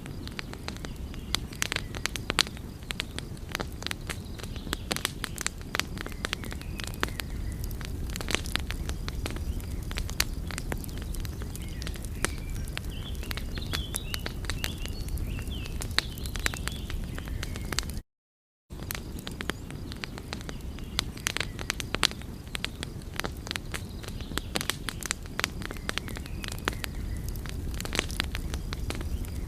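Wood fire crackling, with frequent sharp pops and snaps over a steady low rumble of burning. The sound drops out completely for about half a second a little past the middle, then resumes.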